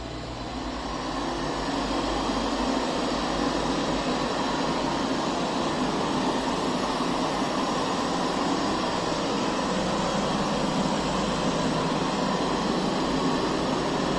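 Puppyoo R6 robot vacuum running, a steady whirring hiss of its suction fan and brushes that grows louder over the first two seconds and then holds level.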